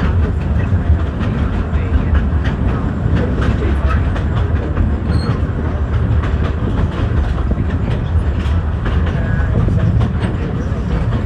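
Steam excursion train running along its track: a steady low rumble with irregular clicks of the wheels on the rails.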